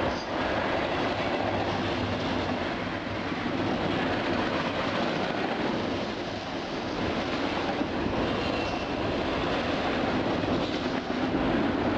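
Freight train rolling past, a steady, unbroken noise of wheels on the rails.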